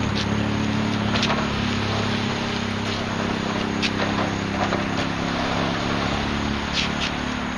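A steady motor hum with a few light knocks and rattles.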